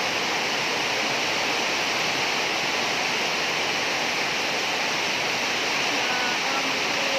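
Heavy rain falling in a steady, unbroken hiss: a hard downpour.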